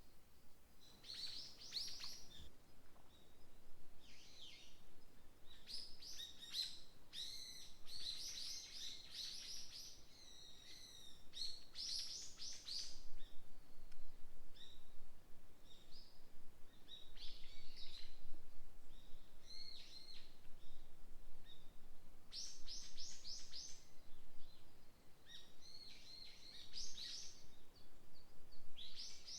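Several songbirds singing in a forest, phrases of quick chirps and trills coming every second or two, over a faint background hiss.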